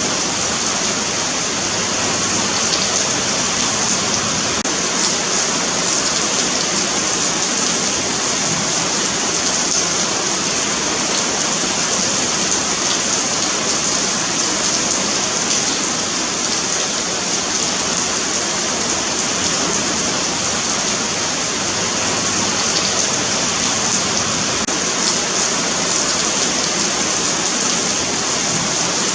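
Steady rain falling on a sidewalk: a continuous, even hiss, brightest in the high treble, that neither builds nor lets up.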